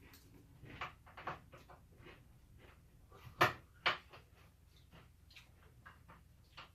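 Scattered small clicks, taps and knocks of hand tools and plastic parts being handled during an Xbox 360 teardown, with two louder knocks about three and a half and four seconds in.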